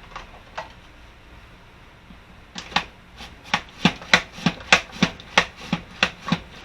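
Peeled, quartered apples being sliced on a mandoline: a couple of light strokes, then from about two and a half seconds in a quick, even run of sharp slicing strokes, about three a second, each a short swish ending in a clack.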